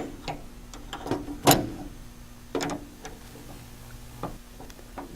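A screwdriver working the set screw of a door's interior window handle and the handle coming off its splines: a few scattered light metal clicks and knocks, the loudest about a second and a half in, over a faint steady hum.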